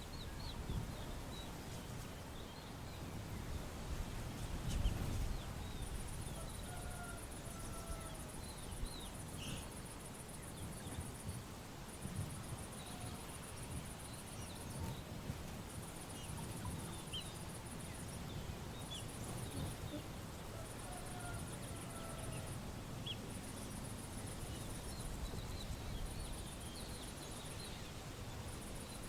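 Outdoor background ambience: a high insect trill pulsing in spells of a few seconds with short gaps, occasional faint bird chirps, and a steady low rumble.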